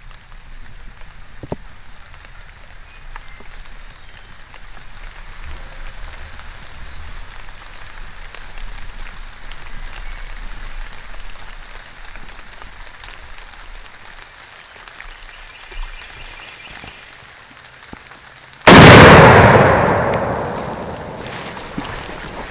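A single shotgun shot at a turkey, sudden and very loud, its echo dying away over about three seconds, about three-quarters of the way in. Before it, a low patter of rain.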